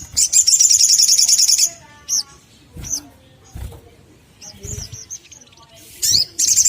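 A sogon, a small bird of the sunbird family, calls in a fast, high-pitched trill of chirps lasting about a second and a half. A few single chirps follow. Near the end a second loud trill begins.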